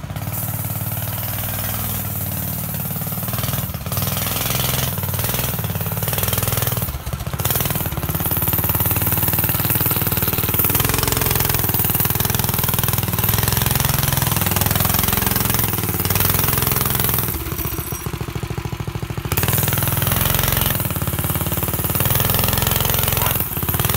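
Go-kart engine running loud through a motorcycle exhaust, with a steady buzz broken by several brief drops in level as the throttle is let off and opened again, the longest about 18 seconds in.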